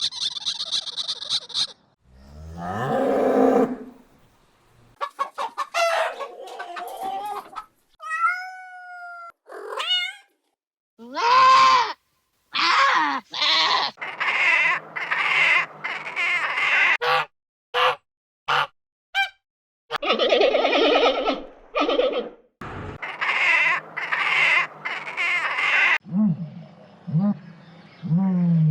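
A string of short, varied animal calls and cries, one different clip after another, with brief silent gaps between them; some are high and buzzy, some whistle and glide in pitch.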